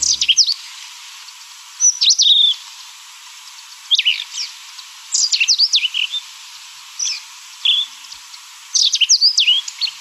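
Indian robin calling: about six short bursts of quick, sharp, high notes, a second or two apart, over a faint steady hiss.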